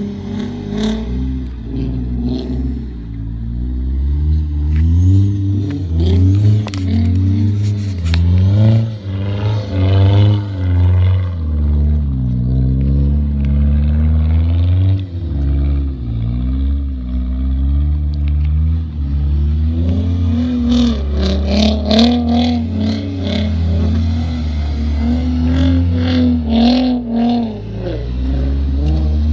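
Car engines revving up and falling back again and again while the cars slide sideways through snow, the pitch climbing and dropping every second or two. A scatter of sharp clicks comes in the second half.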